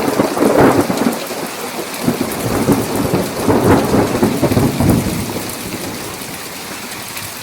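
Thunder rumbling over steady heavy rain: the rumble comes in surges, is loudest in the first second and again around the middle, then dies away, leaving only the rain.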